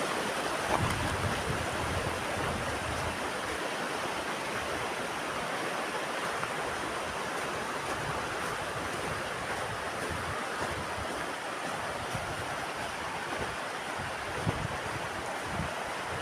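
Fast mountain river rushing steadily, with low gusts of wind buffeting the microphone about a second in and again near the end.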